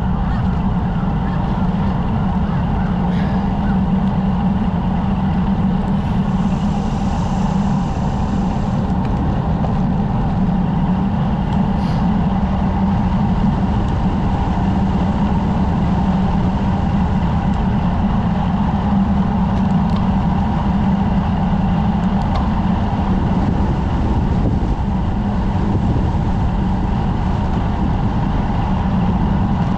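Steady wind rumble and road noise on the microphone of a camera riding along on a road bicycle in motion.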